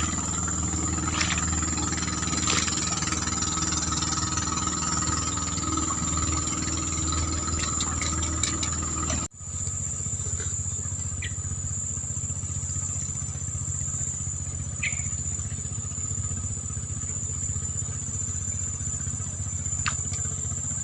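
A small engine running steadily at an even speed, with a constant high-pitched insect drone over it; the sound cuts out for an instant about nine seconds in.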